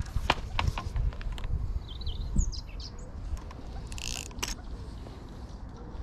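Several sharp clicks and knocks in the first second or so, then a bird chirping briefly about two seconds in, over a low rumble.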